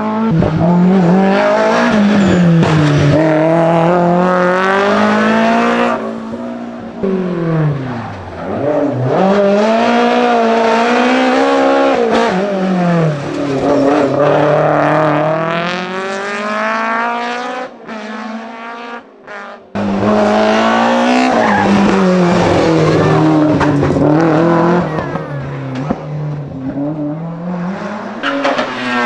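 BMW M3 engine revved hard and repeatedly, pitch climbing and dropping back as the throttle is worked, with tyre squeal under the engine noise. The engine note sags and breaks up briefly a little past halfway, then comes back loud.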